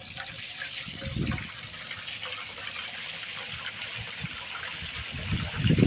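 Water gushing steadily from a sump pump's discharge outlet.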